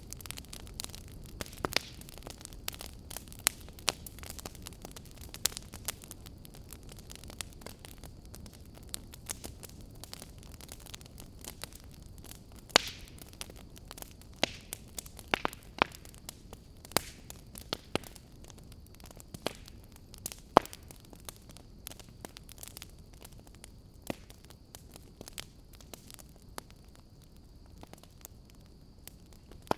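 Wood fire burning in a fireplace: a low steady hiss with irregular sharp crackles and pops, a few of them much louder than the rest.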